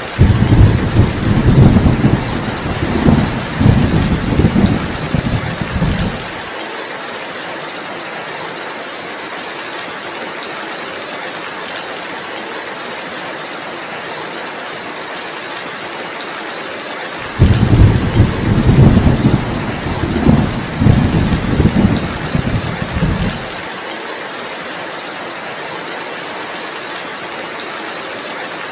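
Steady heavy rain with two long rolls of thunder, each about six seconds and rising and falling in several swells. The first comes at the start and the second a little past halfway, and they are the loudest sounds.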